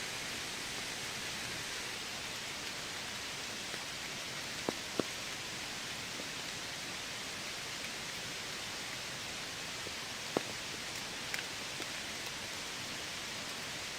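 Steady rain falling in a forest, an even hiss. A few sharp ticks stand out: two close together about a third of the way in, and two more later on.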